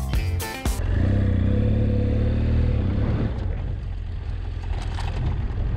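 Music ends within the first second, then a BMW F800GS's parallel-twin engine runs on a dirt track, its pitch falling about three seconds in as the throttle is eased off and settling lower, with light clicks and rattles over it.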